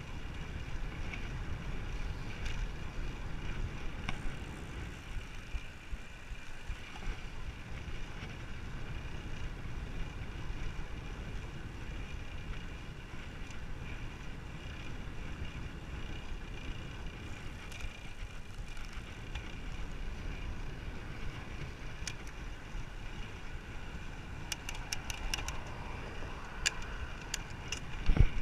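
Steady wind rumble on the microphone and tyre noise from a moving bicycle, with a run of sharp clicks near the end and a brief, louder knock at the very end.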